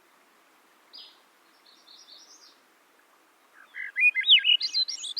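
A songbird singing: a single short high note about a second in, a few quick high chirps, then a loud, fast warbling phrase of varied notes that climbs in pitch near the end. A faint steady hiss lies underneath.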